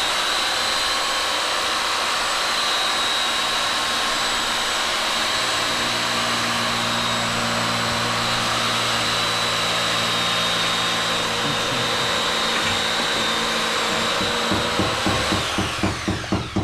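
A high-speed electric motor running steadily with a thin whine for about fifteen seconds. It is then switched off and coasts down with a pulsing beat.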